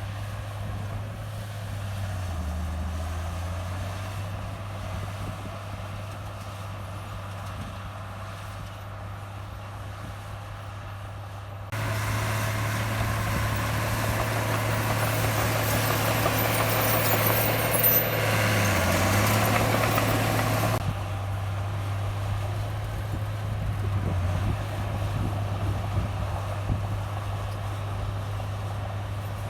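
Komatsu bulldozer's diesel engine running steadily at work, its note dipping briefly twice as it takes load. For about nine seconds in the middle a louder harsh noise joins in, starting and stopping abruptly.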